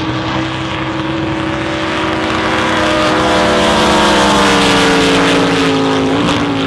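Drag boat racing engines running at full throttle down the course, their pitch falling slowly as they pass and pull away. One engine is popping and cracking, taken afterwards as the sign of a motor problem on one of the boats.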